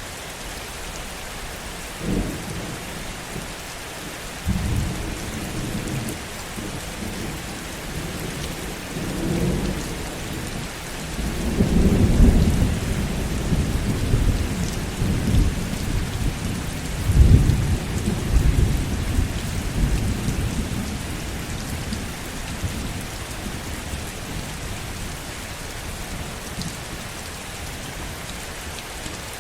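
Steady heavy rain with a long, low roll of thunder that starts about two seconds in, swells to its loudest near the middle with a second peak a few seconds later, and dies away after about twenty seconds.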